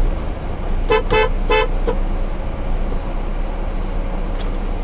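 A car horn honking three quick short toots about a second in, with a weaker fourth just after: another driver hooting at the reversing truck. Under it runs the steady low drone of the truck's engine.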